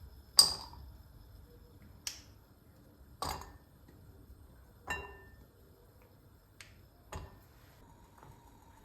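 Kitchenware being handled: six sharp clicks and knocks a second or so apart, the first the loudest, one about five seconds in with a short ringing like china or glass.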